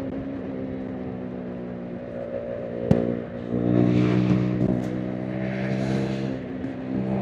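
KTM RC 390's single-cylinder engine and exhaust running under way at a fairly steady note, with a sharp click about three seconds in, after which the engine note gets louder.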